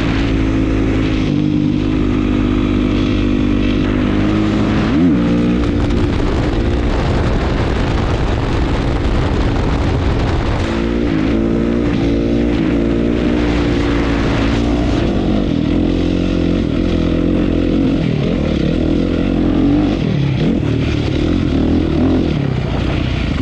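Honda CRF450 dirt bike's single-cylinder four-stroke engine running through an HGS aftermarket exhaust while being ridden. The revs hold steady for a few seconds at a time, then rise and fall.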